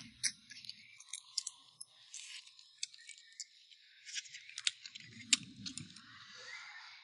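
A person eating close to the microphone: chewing with scattered crisp clicks and small crunches. About five seconds in there is a short low hummed murmur.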